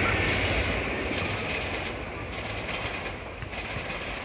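SEPTA Regional Rail electric multiple-unit train passing and moving away, its rumble and wheel noise fading steadily. A high wheel squeal dies out in the first moments.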